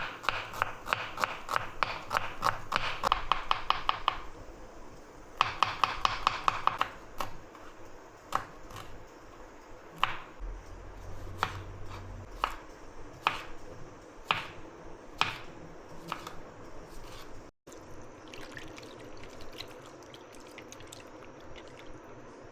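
Knife chopping on a cutting board in two fast runs of several strokes a second, then slower single cuts, growing fainter after about seventeen seconds.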